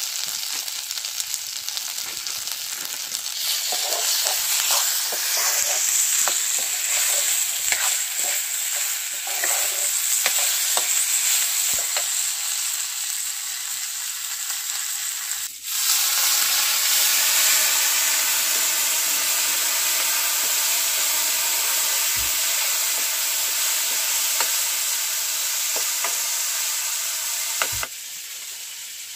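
Potatoes and greens sizzling in oil in a metal wok, with the ladle scraping and clicking against the pan while they are stirred in the first half. After about 16 s the sizzle becomes steadier and louder, and it drops back near the end.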